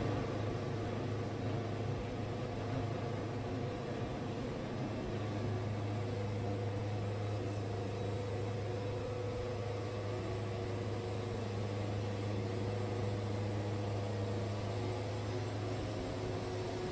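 Wood-Mizer band sawmill running steadily, its engine droning and the band blade sawing through a log.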